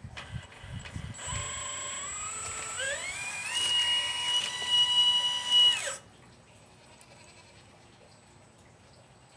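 Small electric motor of a 1/12-scale RC excavator whining under power, with a few soft knocks at the start. The whine starts about a second in, rises in pitch around three seconds in, holds steady, then cuts off suddenly near six seconds.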